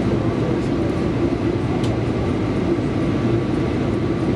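Tobu Railway electric train running at speed, heard from inside the passenger car: a steady running rumble with a faint steady whine.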